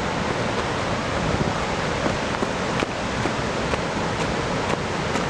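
Steady rushing of a waterfall and its fast-flowing river, an even, loud wash of noise.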